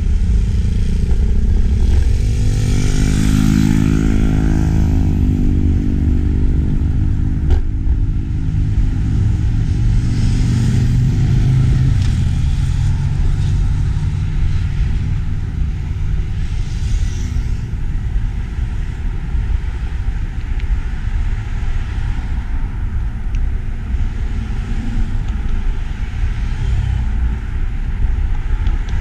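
Wind buffeting an action camera's microphone during a bike ride, a constant low rumble. A motor vehicle's engine passes close by from about two to seven seconds in, its pitch shifting as it goes by.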